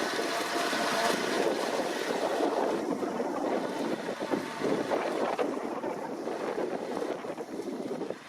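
New Holland T7.290 tractor working with a KUHN tedder: a steady mix of engine and machine noise with wind buffeting the microphone.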